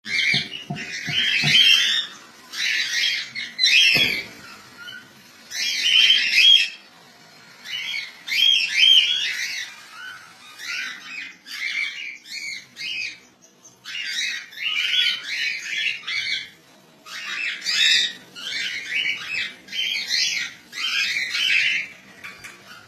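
A small bird calling in short chirping, whistled bursts of about a second each, repeating with brief pauses.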